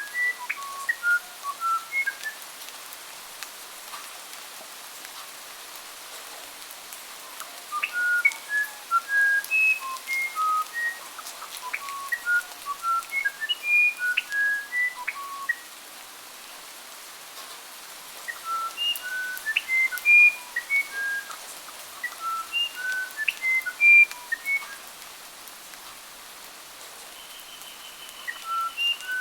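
A songbird singing long phrases of short, clear whistled notes that jump between high and low pitches, with pauses of a few seconds between phrases, over a faint steady hiss.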